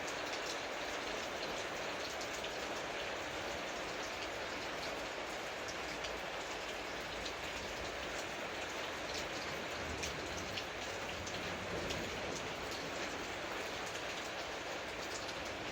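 Steady rain falling, with many sharp hits of single drops close by.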